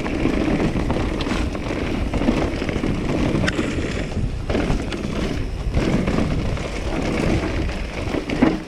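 Electric mountain bike (Specialized Kenevo with its Brose-built Specialized 2.1 motor) coasting down a rooty trail: a steady rumble of tyres and frame over the roots with scattered rattles and clicks of the drivetrain and motor, heard from a chest-mounted camera with some wind on the microphone.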